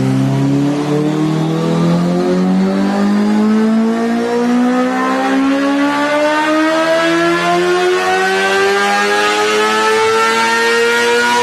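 A high-revving engine accelerating in one long pull, its pitch climbing steadily with no gear change.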